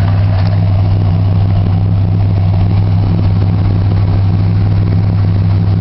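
1978 Chrysler New Yorker's 400 cubic-inch Mopar B-block V8 running steadily, still warming up after a cold start at minus 15 C.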